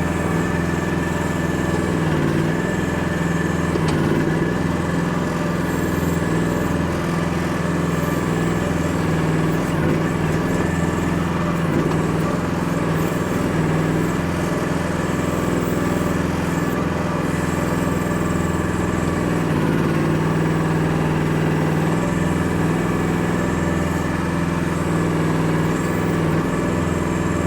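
Small engine of a Chinese micro excavator running steadily at a constant pitch while the machine digs dirt from a pile.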